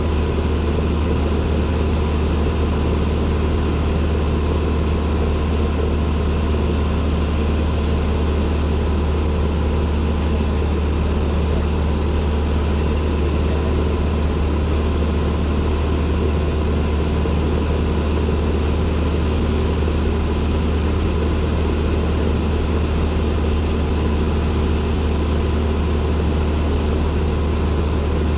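Cessna 172N's four-cylinder Lycoming engine and propeller running at a steady, even drone, heard from inside the cockpit.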